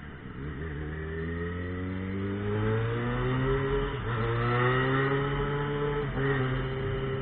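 Yamaha XJ6 motorcycle's inline-four engine accelerating, its pitch rising and then dropping at an upshift about four seconds in and again about six seconds in, then running steadily.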